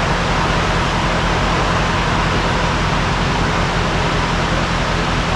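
A vehicle engine running steadily, a low even hum under a loud, constant rushing noise.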